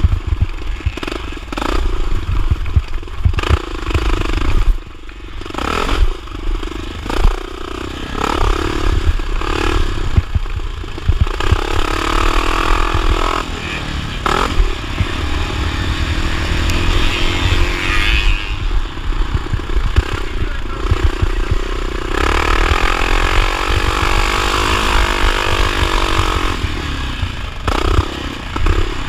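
1979 Honda XR500's single-cylinder four-stroke engine being ridden hard in a motocross race, its revs rising and falling again and again and held high for stretches, with clattering over a low rumble.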